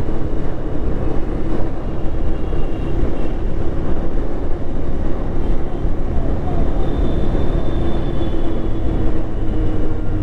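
Motorcycle running on the move, a steady engine hum over constant rumbling road and traffic noise.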